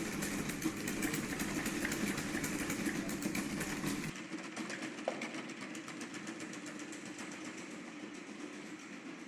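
AlphaDog quadruped robot dog running, its electric leg motors whirring with a rapid, even clicking rhythm. About four seconds in the sound becomes quieter and thinner.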